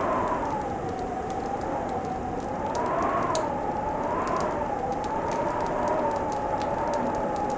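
Fireplace crackling, with many small sharp pops over a steady hiss. Under it runs a whistling tone, like wind howling, that slowly wavers up and down in pitch.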